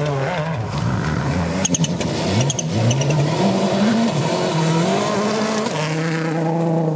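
Rally car engine revving hard, its pitch repeatedly climbing and then dropping as the driver shifts or lifts, then holding a steadier high note near the end. A few sharp cracks come between about one and a half and two and a half seconds in.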